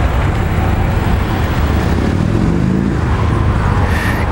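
Honda NT700V's liquid-cooled 700cc twin-cylinder engine idling steadily, a low even rumble.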